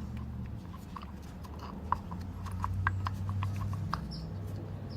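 Motor oil dripping from a motorcycle engine into a drain pan: a run of small, irregular plinks over a low steady hum.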